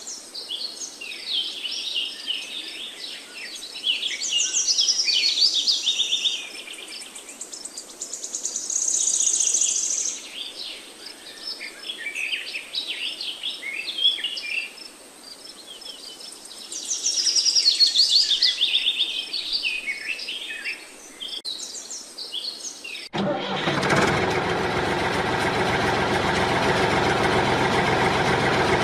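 Many birds chirping and singing. About 23 seconds in, the sound cuts abruptly to a miniature gasoline engine running steadily.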